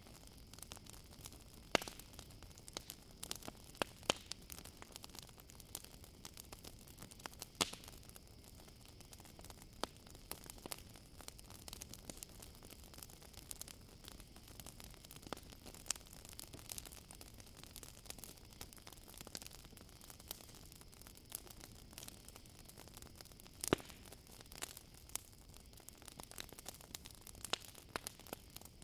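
Campfire crackling, with irregular sharp pops and snaps, a few of them much louder, over a steady high trill of crickets.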